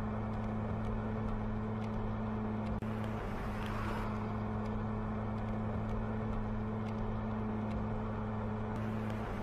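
Steady drone of a car engine with road noise: a low, even hum that holds at one pitch.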